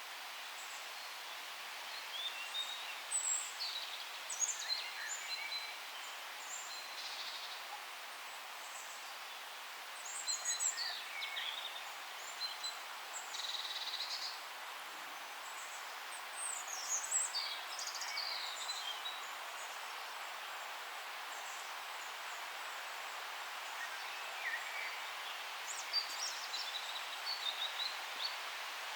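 Forest ambience: songbirds chirping and trilling in scattered clusters a few seconds apart, over a steady soft hiss.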